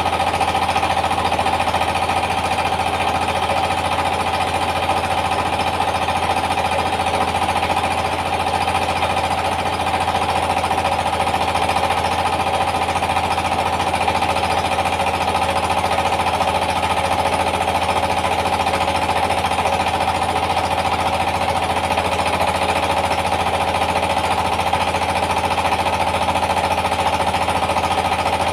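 Yanmar TS230 single-cylinder diesel engine running steadily with a fast, even pounding, driving a rice-milling machine that adds a steady tone.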